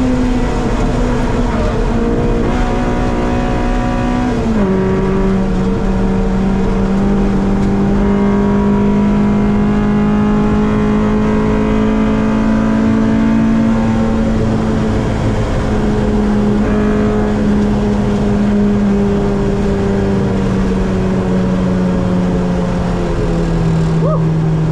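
Honda B-series four-cylinder engine of a Civic race car running hard at high revs, heard from inside the cabin. Its pitch steps down sharply twice, at upshifts about four and a half seconds in and near the end, and holds fairly steady in between.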